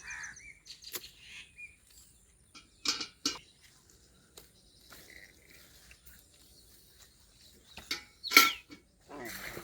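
Birds chirping and calling, among them crow calls, with a couple of sharp knocks about three seconds in and a louder thump near the end.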